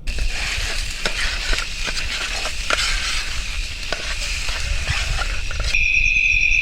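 Food frying in a pan, sizzling with frequent sharp pops and crackles. Near the end the sizzle gives way to a shrill, steady whistle-like tone.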